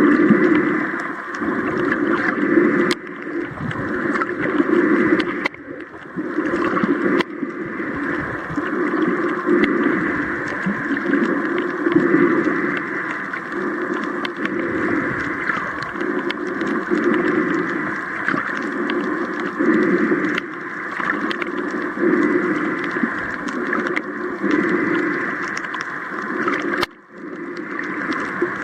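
A boat under way: its motor running steadily, with a constant rushing noise that rises and falls slightly, and a brief drop about 27 seconds in.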